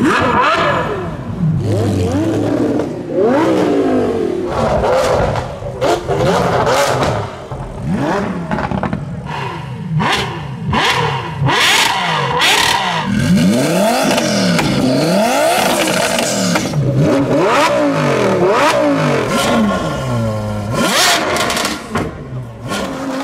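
Supercar engines revving in quick repeated blips, each one climbing and falling in pitch. Sharp cracks and abrupt switches from one engine to the next run throughout.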